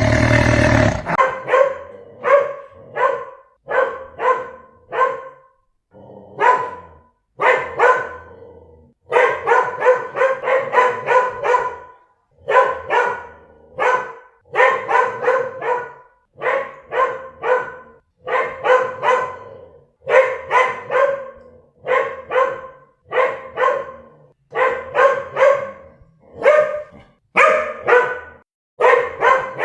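A dog barking over and over, in short sharp barks that come singly and in quick runs of several. In the first second the tail of a loud roar cuts off before the barking starts.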